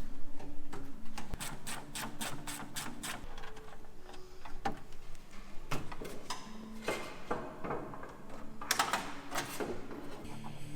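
A run of quick sharp clicks, then scattered clicks and two louder rattling bursts of tool and parts handling, over faint background music.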